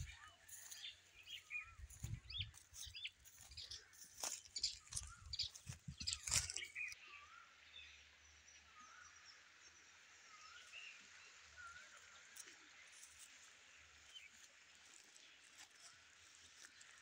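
Faint chirping of small birds outdoors. During roughly the first seven seconds there are also bumps, knocks and rustling from the handheld camera as it is carried; after that only the bird chirps remain over a faint steady hiss.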